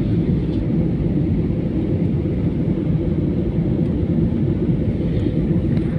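Steady low rumble and rush of an aeroplane's engines and airflow in flight, heard from inside the cabin.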